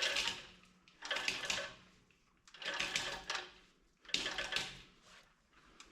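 Hand chain hoist being pulled to lift: the chain clatters through the hoist in about four pulls, a little over a second apart.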